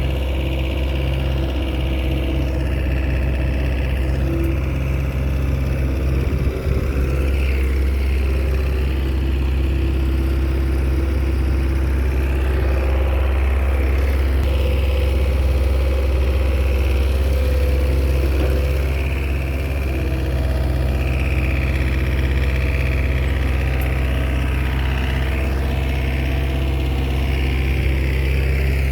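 Diesel engine of a small Komatsu bulldozer running steadily while it works. The engine note swells a little in the middle and eases briefly about twenty seconds in.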